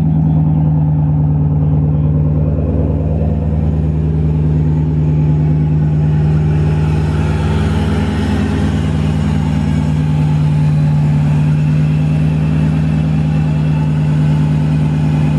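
Steady road noise heard inside a BMW's cabin at highway speed: a loud constant low drone under the roar of Yokohama Advan Sport V105 tires, with the tire hiss swelling for a few seconds in the middle. The owner calls the tires obnoxious and almost deafening, and suspects the tires are still hard from the cold or that the air suspension lets more noise through.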